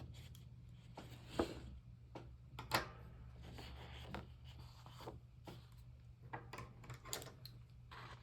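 Paper being handled and cut with scissors: scattered short rustles and snips, a few louder than the rest, over a low steady hum.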